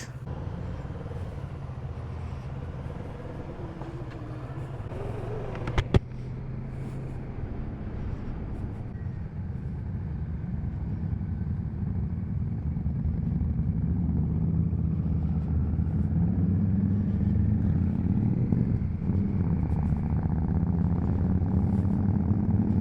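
Motorcycle engine running steadily, with a single sharp click about six seconds in, and the engine sound growing louder through the second half.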